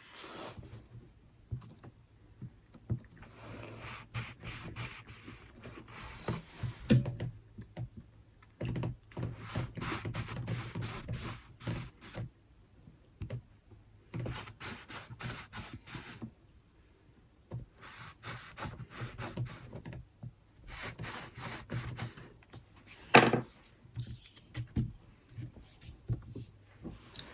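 Shortbread dough being worked by hand on a wooden surface: rubbing and scraping in bursts of a few seconds with short pauses between, and one sharp knock near the end.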